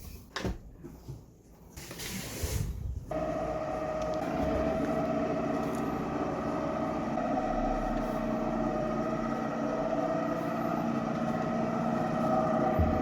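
A few handling knocks and clicks, then about three seconds in the Plus Minus Zero XJM D010 wet-mop cleaner's motor switches on and runs with a steady hum.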